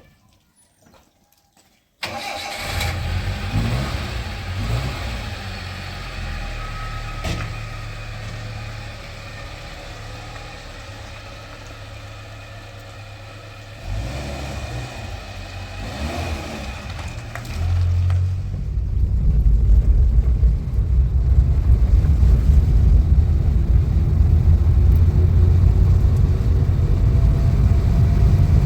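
A car engine comes in suddenly about two seconds in and runs steadily, then grows much louder from about eighteen seconds, with a heavy low rumble as it revs up and keeps running.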